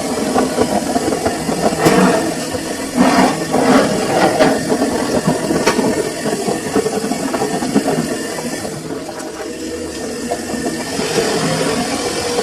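Samsung washing machine running a full load: the motor and drum turning with irregular knocks and rattles in the first half, easing off briefly a little past the middle before picking up again.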